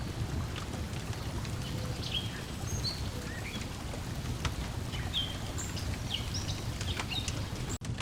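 Layered lakeside ambience: a steady low wash of water lapping at the shore, songbirds chirping, and the scattered pops of a crackling wood fire. The sound cuts out for an instant near the end.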